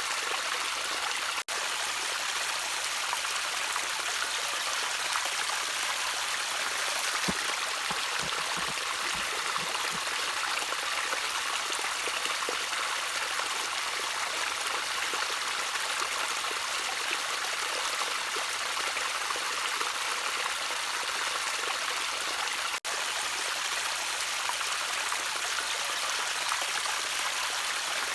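Gently trickling water from a small stream, a steady, even rush that cuts out for an instant twice.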